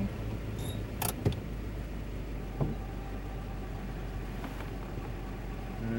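Toyota pickup's engine and drivetrain running with a steady low rumble, heard from inside the cab while crawling a dirt trail in low-range first gear, with two sharp knocks about a second in and a fainter one a little later.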